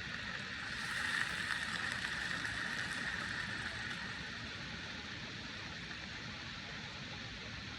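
Steady rain falling, with a louder stretch from about a second in that eases off by about four seconds.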